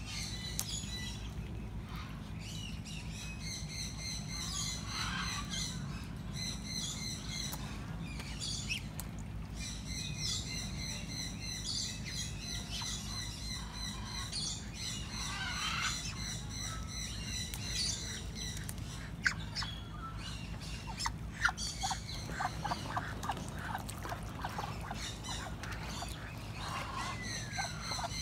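Wild birds chirping and calling, with repeated rapid trills and some short sharp calls, over a steady low hum.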